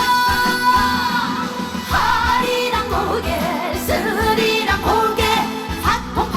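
Live trot song: a female singer holds a long note that ends about a second in, then sings on over a band backing with a steady beat.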